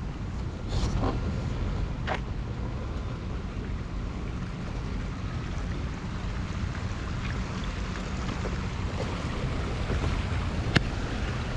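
Wind buffeting the microphone as a steady low rumble, with a couple of sharp clicks, the loudest near the end.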